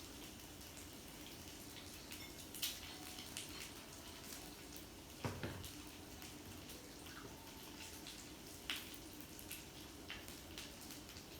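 Quiet tabletop eating sounds at a yakiniku grill: scattered small clicks and crackles with a few sharper taps, and a duller knock about five seconds in.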